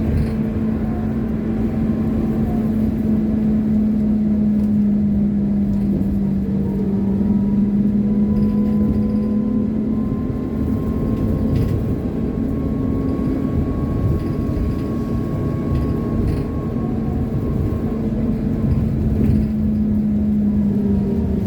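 Trolleybus on the move: a steady low electric hum that slowly dips and rises, with a fainter higher whine, over continuous road rumble.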